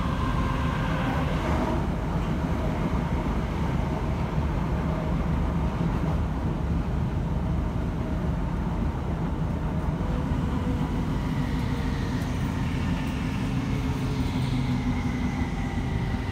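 Steady rumble of a passenger train running at speed, heard from inside the carriage, with a few faint steady whining tones over it.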